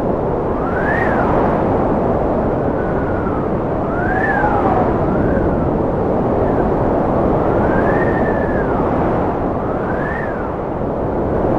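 Wind blowing hard with a steady rushing noise, over which a whistling howl rises and falls in pitch again and again.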